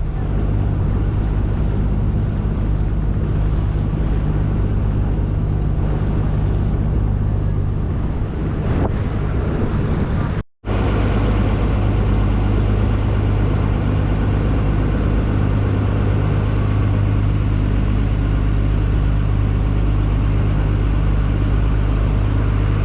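River boat's engine running with a steady, loud drone and rushing noise. It breaks off for an instant about ten seconds in, then carries on unchanged.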